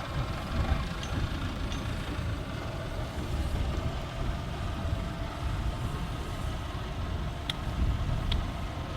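A steady low rumble of a railway engine running, with a few short sharp ticks near the end.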